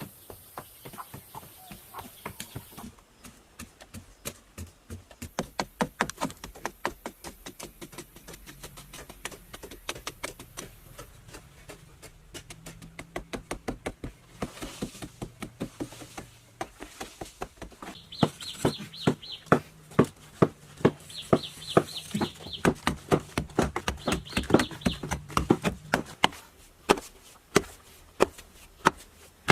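Rapid, regular knocking, several strikes a second, growing louder about two-thirds of the way through.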